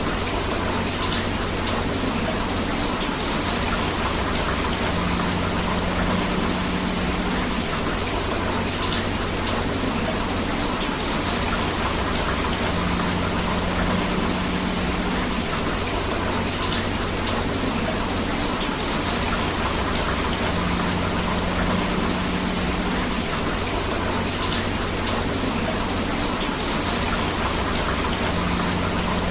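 Steady rain with a flowing river, an even, continuous rush of water. The same faint pattern recurs about every eight seconds.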